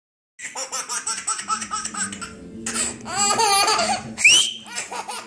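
A baby laughing in repeated, rhythmic giggles and belly laughs, set off by a person whistling; a short whistle sounds about four seconds in.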